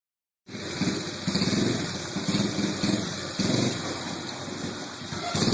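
A pit bike's small motorcycle engine starts sounding about half a second in and keeps running, rising and falling in level every second or so.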